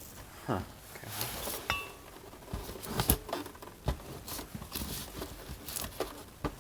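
Scattered light clicks, knocks and scrapes of a plastic boombox case and screwdriver being handled during disassembly.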